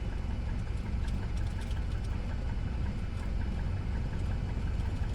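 Cessna 172S's four-cylinder Lycoming engine and propeller running steadily, heard inside the cabin.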